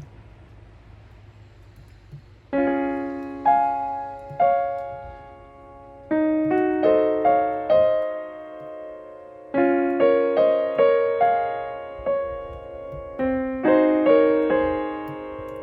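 Background music: solo piano playing slow chords, each fading after it is struck. It comes in about two and a half seconds in, after a faint hiss.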